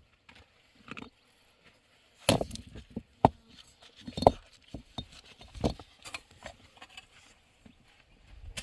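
Irregular knocks and clinks of hard objects being handled, with a few louder strikes about two, three, four and five and a half seconds in.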